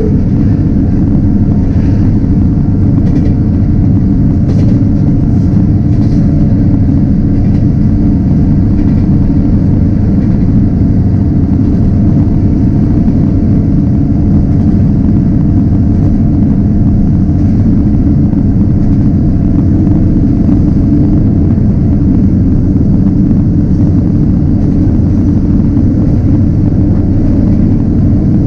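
Steady loud rumble of a train running along the line, with a few faint clicks in the first few seconds.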